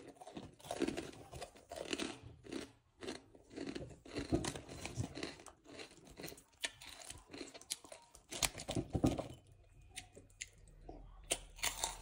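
Close-up chewing of crispy pork crackling (chicharon): irregular loud crunches as the rind is bitten and broken between the teeth. The crunching eases off for a moment near the end.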